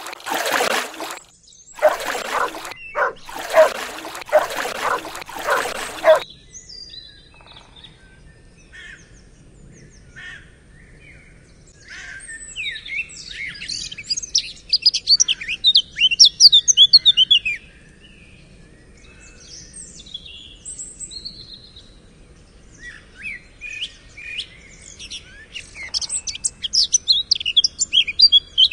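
Several loud rushing bursts of noise in the first six seconds, then birds chirping, many short high calls that crowd together in two busy stretches.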